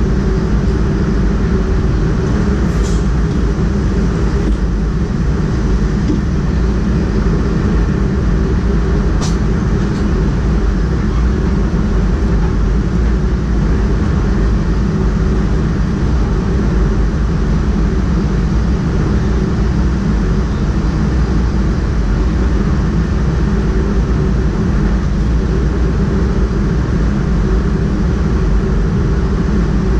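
Steady running noise of a DDAR double-deck train heard from the driver's cab: a constant low rumble of the train on the rails. Two short high clicks come about three and nine seconds in.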